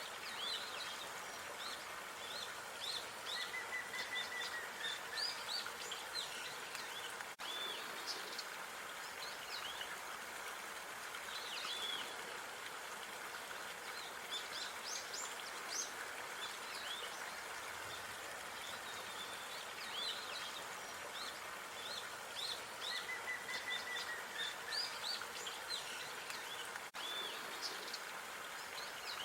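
Small birds chirping over a steady outdoor background hiss. The same stretch of birdsong repeats about every 20 seconds, as in a loop.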